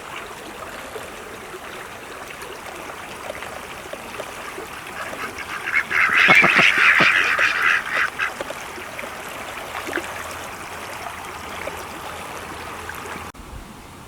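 Ducks quacking, a loud run of rapid calls about six seconds in, then a few scattered quacks, over a steady background hiss.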